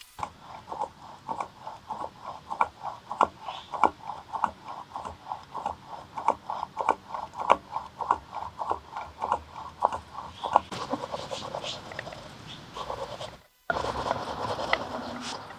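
A hand tool rubbing back and forth on wood, about three strokes a second in a steady rhythm. After about ten seconds the strokes blur into a denser scraping, and near the end it cuts off briefly before scraping starts again.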